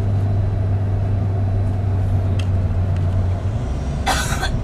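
Steady low drone of a Scania K400 double-decker coach running at highway speed, heard from inside. The hum drops lower in pitch about three and a half seconds in. Near the end there is a short, harsh cough.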